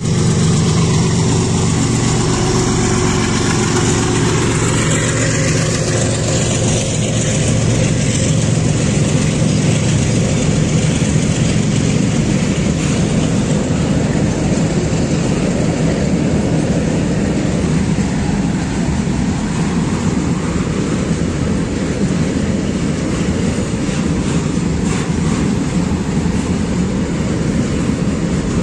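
Diesel goods train passing: the locomotive's engine drone falls in pitch as it goes by over the first few seconds. Then a long string of tank wagons rolls past with a steady rumble of wheels on rail.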